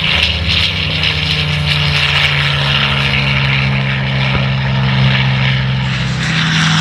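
North American P-51D Mustang's Packard Merlin V-12 engine and propeller running steadily, with a slight change in pitch about six seconds in.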